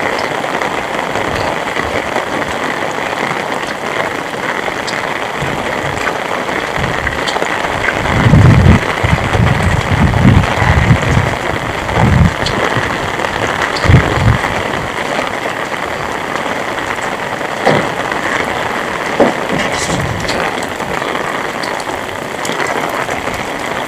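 Heavy rain falling steadily, with a stretch of loud, choppy low rumbling between about 8 and 15 seconds in.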